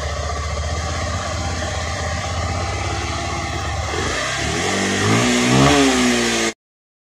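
Bajaj Pulsar 150 BS6's single-cylinder engine running at a steady idle, then revved by hand at the throttle-body linkage about four seconds in, rising and falling in pitch. It is running now that petrol reaches the injector after the no-start. The sound cuts off suddenly near the end.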